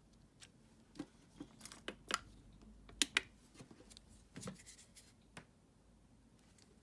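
Hands handling small parts of a cordless screwdriver battery pack: a string of irregular light clicks and taps, the loudest a pair about three seconds in.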